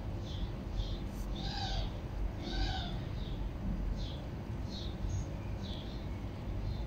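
Birds chirping: short high chirps repeating every half second or so, with two fuller, louder calls about one and a half and two and a half seconds in, over a steady low background rumble.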